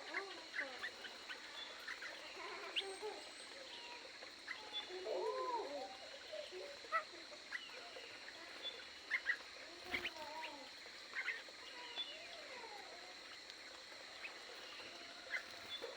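A mix of aviary birds calling and chirping: many short calls that rise and fall, overlapping quick high chirps, over a steady high-pitched whine.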